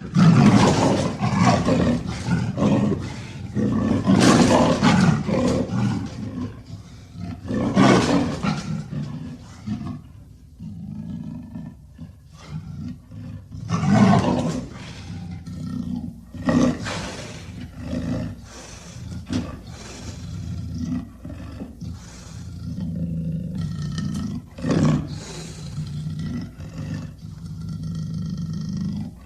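A big cat roaring and growling: a series of loud, rough roars that start suddenly, strongest in the first few seconds, then a low continuous growl broken by further roars every few seconds.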